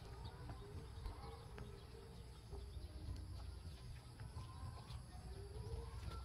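Faint birds calling over a steady low wind rumble, with a few small clicks.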